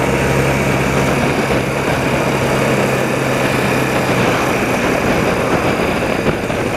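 A 30-year-old BMW motorcycle's engine running steadily on the move, under heavy wind noise rushing over the rider's microphone.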